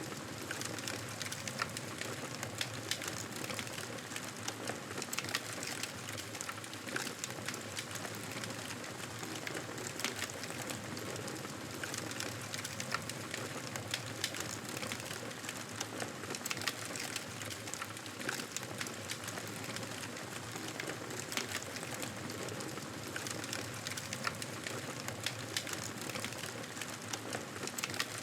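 Wood fire crackling steadily in a fireplace: a dense run of sharp, irregular pops and snaps over a constant soft hiss.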